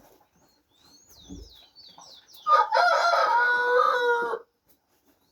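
A rooster crowing once, a single call of about two seconds starting partway through. Faint, high, wavering bird chirps come just before it.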